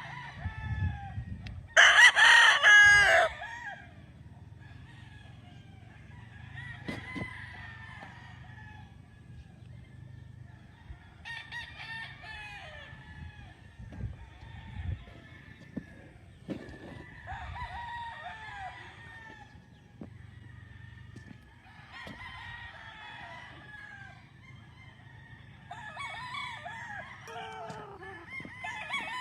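Roosters crowing: one crows loudly close by about two seconds in, and other roosters answer more faintly every few seconds after it.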